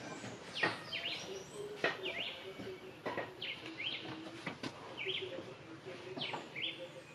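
Birds chirping over and over, many of the short calls sweeping down in pitch, with a few sharp knocks in between.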